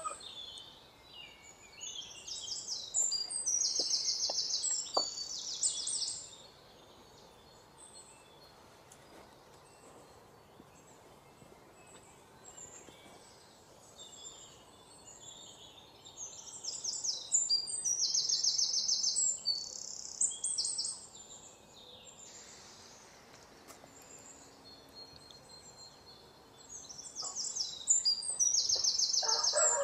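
Songbirds singing in bursts of fast, high, rapidly repeated chirping notes, with quieter stretches of faint outdoor background between. Near the end a rooster starts to crow.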